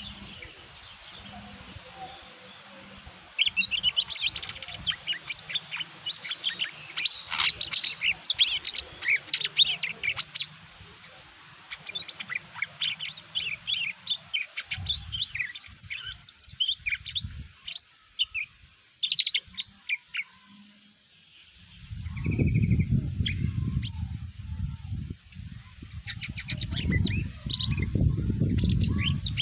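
Cucak ijo mini, a small leafbird, singing a long run of quick, varied high chirps and twittering notes, pausing in the last third of the clip and then resuming. Twice in the later part a loud low rumbling noise runs under the song.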